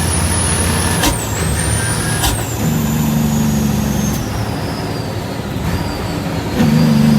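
Heavy dump truck's diesel engine running under way, with the engine note changing pitch twice and two sharp knocks early on. A faint high whine falls slowly throughout.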